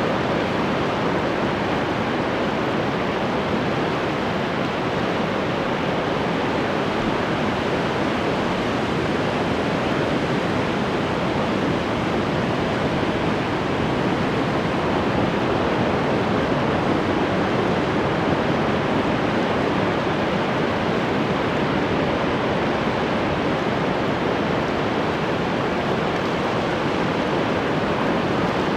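Ocean surf, a steady wash of breaking waves with no distinct individual breakers or pauses.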